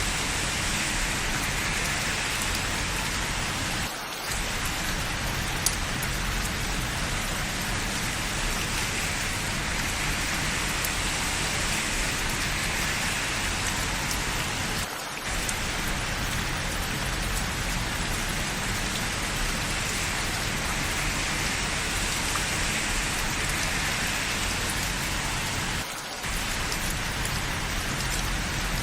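Steady rain falling, an even hiss with no let-up, briefly dipping in level three times about eleven seconds apart.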